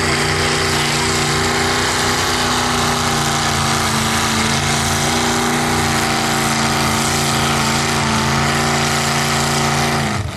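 Competition pulling truck's engine held at high, steady revs under heavy load. Near the end the pitch drops sharply as the throttle comes off.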